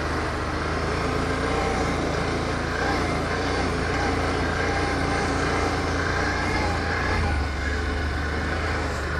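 ATV engine running steadily while riding along a trail, its pitch wavering slightly up and down with the throttle.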